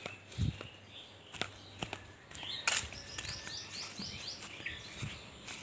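A bird calling a quick run of about five short high chirps a little past the middle, over outdoor background noise with scattered light clicks and taps, the loudest just before the chirps.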